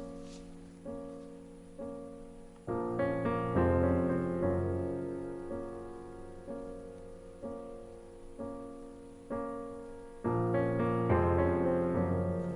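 Slow background piano music: notes struck about once a second and left to fade, with fuller, louder chords coming in about three seconds in and again near the end.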